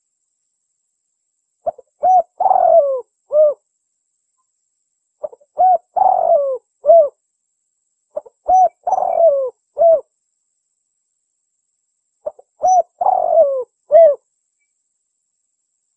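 Spotted dove cooing: four repeated phrases, each a few short coos around one longer coo that falls in pitch, with dead silence between phrases.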